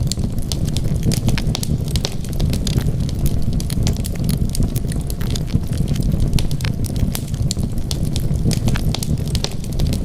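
Wood fire crackling, with many small irregular pops over a steady low rumble.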